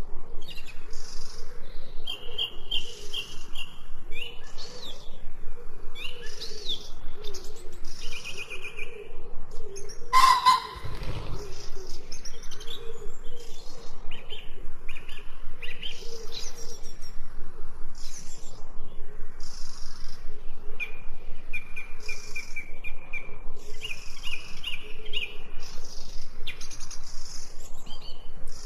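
Several songbirds chirping and singing together without a break, with fast repeated trills twice. A single sharp knock about ten seconds in.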